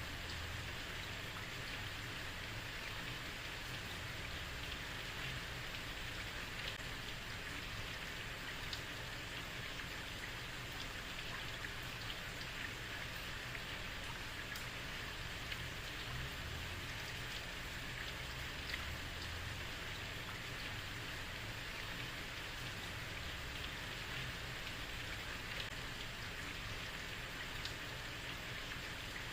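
Steady heavy rain falling on a street, an even hiss with scattered drop clicks and a low rumble underneath.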